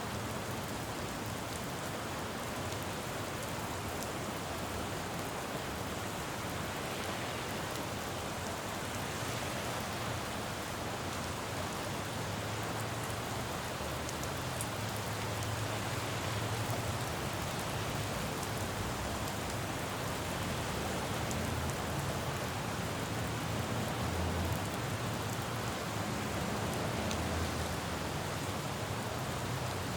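Steady rain falling on a city road, with the low rumble of traffic swelling up a couple of times, around the middle and again later on.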